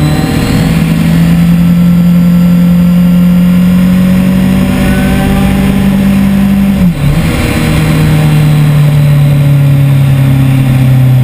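2010 Kawasaki ZX-10R's inline-four engine heard from on board at track speed, its note holding fairly steady and sagging slightly. The note breaks briefly about seven seconds in, then picks up again.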